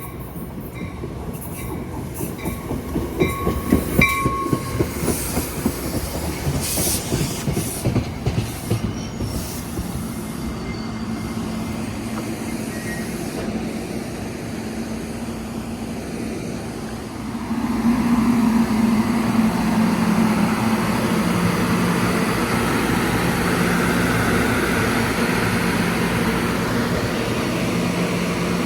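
NJ Transit commuter train running past, wheels clicking over rail joints with brief wheel squeals. About two-thirds of the way through it grows suddenly louder, into a steady hum with a low tone held underneath.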